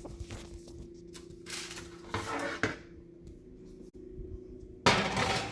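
Oven door and sheet pan being handled: a click, scraping and knocking as the pan of potatoes goes into the oven, with a sudden loud clunk and rush of noise near the end, over a steady low hum.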